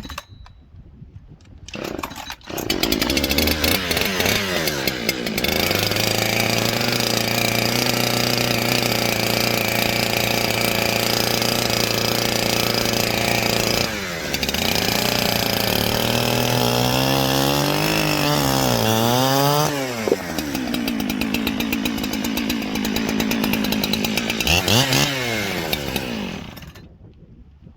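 Gas chainsaw coming up to speed and running at high revs. Its pitch dips and wavers up and down as it cuts into a piece of wood. A few quick revs come just before it stops near the end.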